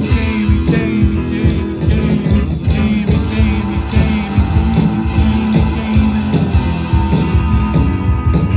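Rock music: a band section led by guitar over a steady drum beat.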